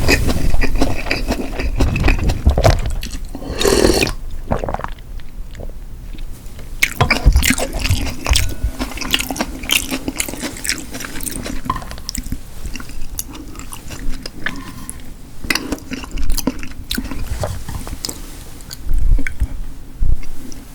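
Close-miked eating sounds: a person biting and chewing food, with irregular wet mouth clicks and smacks. There are louder bursts about four seconds in and near the end.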